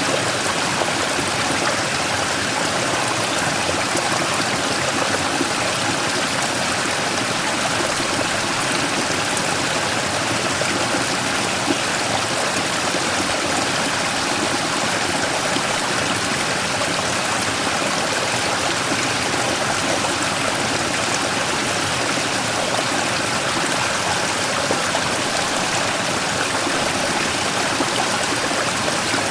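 Mountain stream rushing and splashing over a large rock in a small waterfall, a steady even flow of water.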